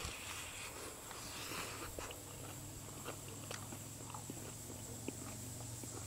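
Faint chewing of a bite of pan-fried pocket pie close to the microphone: scattered soft mouth clicks, over a steady thin high whine.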